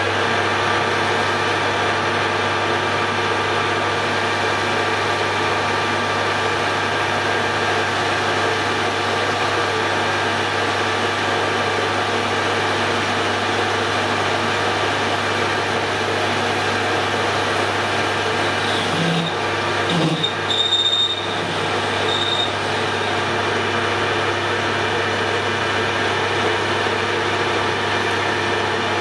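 Hare and Forbes AL335 metal lathe running steadily while taking a cut in steel stock, with a few brief sharper sounds and a short high squeal about two-thirds of the way in.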